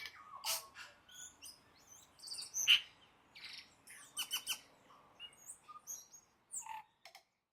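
Birdsong: a run of varied chirps and whistles, some sliding up or down in pitch, the loudest about a third of the way in, cutting off abruptly near the end.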